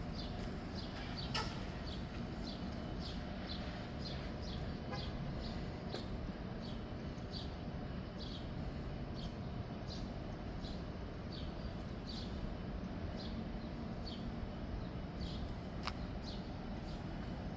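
Train rolling past with a steady low rumble, its wheels clicking over rail joints about twice a second, with a couple of sharper knocks.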